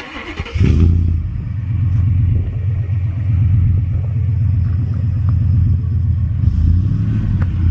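Ford engine started on the starter, catching about half a second in, then idling steadily with a low rumble through a temporary exhaust made of a MagnaFlow 24-inch muffler and a resonator.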